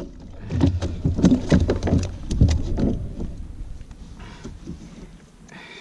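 A run of knocks and clatter with deep rumble from handling gear and a fish aboard a plastic fishing kayak, loudest in the first three seconds and then fading off.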